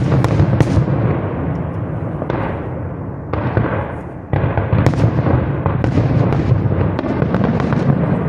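Aerial firework shells bursting one after another: deep booms with a long rumbling echo, a heavy burst right at the start and more about two, three and four seconds in, then a run of sharp cracks in quick succession.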